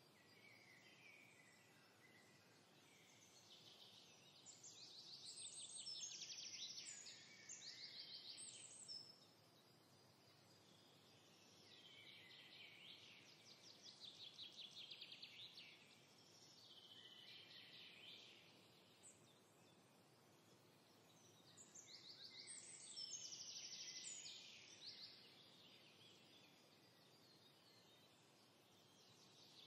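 Faint birdsong: short trilled phrases of rapid chirps, repeating every few seconds.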